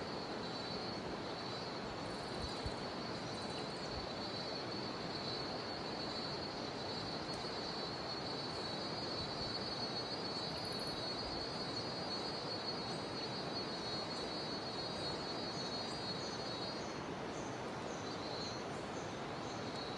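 Jungle river water rushing steadily under a continuous high-pitched drone of cicadas. The drone stops about three-quarters of the way through, and short high chirps then repeat about once a second.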